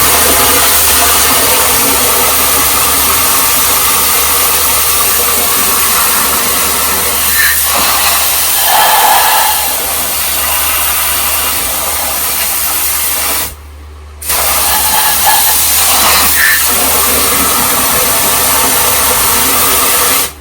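Loud, steady hiss of a jet blasting into the bilge around a stuck bilge pump float switch to free it. It cuts off sharply for under a second about two-thirds of the way through, then resumes.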